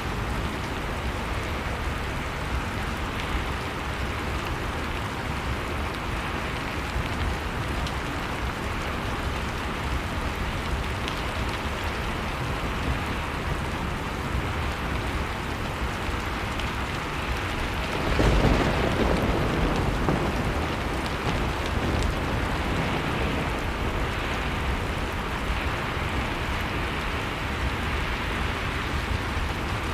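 Blizzard-and-fireplace ambience: a steady wash of storm noise with fire crackling. About eighteen seconds in, a deep rumble swells up and fades away over a few seconds.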